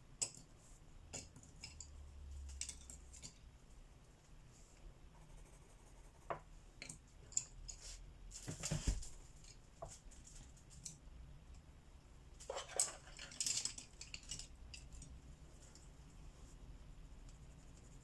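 Colouring supplies being handled on a desk: scattered light clicks and taps, with a louder clatter about nine seconds in and another short run of clatter around thirteen seconds.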